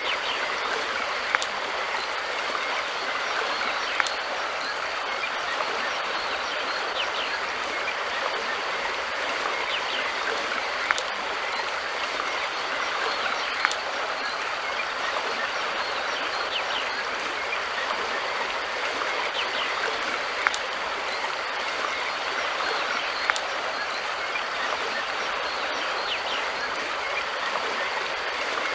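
River water flowing steadily over its bed, an even rushing sound, with a short sharp click every few seconds.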